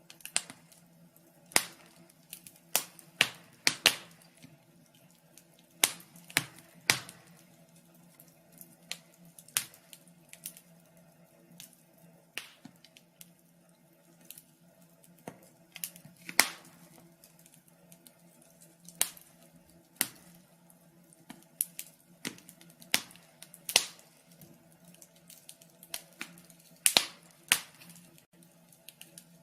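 Fire crackling: irregular sharp pops and snaps, sometimes several close together, then a gap of a second or more, over a faint steady low hum.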